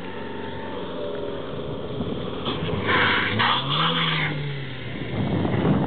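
Renault Duster SUV's engine under load as it crawls over rock ledges, its revs rising and then falling about halfway through. A harsh rasping noise comes in for about a second and a half in the middle.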